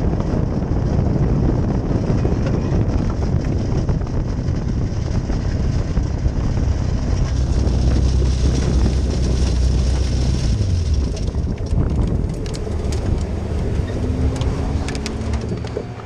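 Caterham R400 race car on the move, with heavy wind on the microphone and a low engine and road drone. The drone drops in pitch and fades about eleven seconds in, and a few sharp clicks follow.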